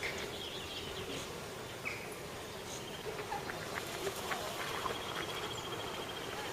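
Outdoor ambience of insects buzzing, with scattered short high chirps and a thin steady high tone in the second half.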